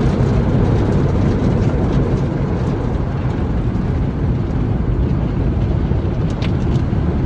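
Automatic car wash running, heard from inside the car: a steady, loud low rumble of noise.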